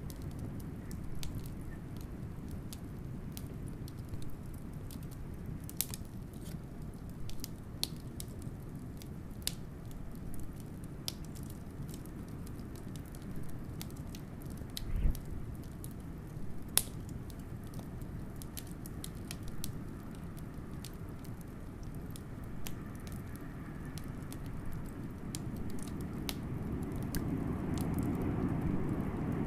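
Wood fire crackling with scattered sharp pops, over a steady low rush of blizzard wind that swells near the end.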